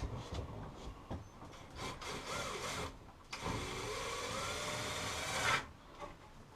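Two runs of a power tool working on wood: a short one of about a second, then after a brief gap a steadier run of about two seconds whose pitch slowly rises before it cuts off suddenly.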